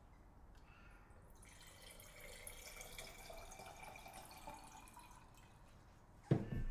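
Liquid being poured into a glass, a splashing pour whose tone rises as the glass fills, lasting about four seconds. A single dull thump near the end is the loudest sound.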